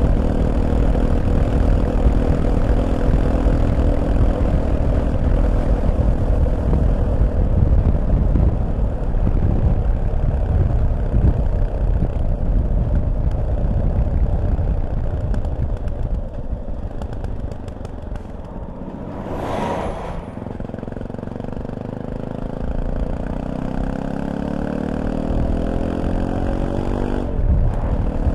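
Fantic Caballero 500's single-cylinder engine running at riding speed with wind rush, then easing off as the bike slows about two-thirds of the way through, with a short sharp sound. The engine then pulls away with its pitch rising steadily, and there is a gear change just before the end.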